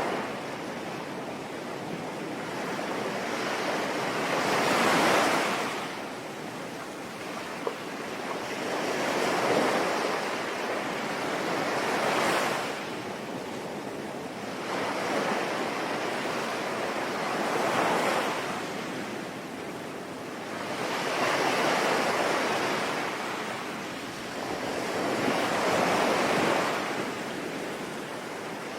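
Sea waves washing onto a shore, each one swelling and fading every four to five seconds over a steady hiss.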